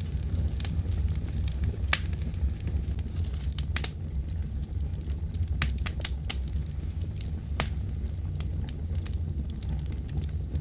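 Fire crackling: irregular sharp pops and snaps, a few louder ones, over a steady low rumble of the burning fire.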